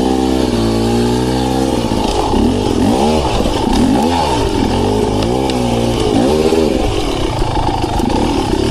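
Beta Xtrainer two-stroke dirt bike engine under way, its pitch rising and falling again and again as the throttle is opened and closed, with a long held pull at the start and several short revs after about two seconds in.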